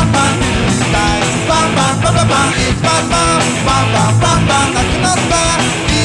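Punk rock song with electric guitars and drums, loud and dense throughout.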